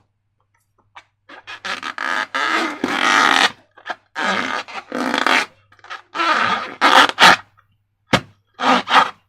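Slime being worked by hand, with wet squelching and sticky crackling that come in about four bursts with short pauses between.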